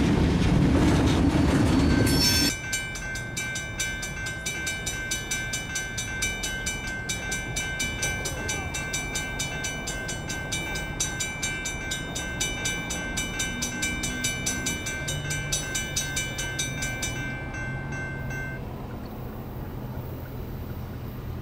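Freight train at a railroad crossing: a loud low rumble for the first couple of seconds drops suddenly, then a crossing bell rings rapidly and evenly over the rolling freight cars and stops near the end, leaving only the low rumble of the train.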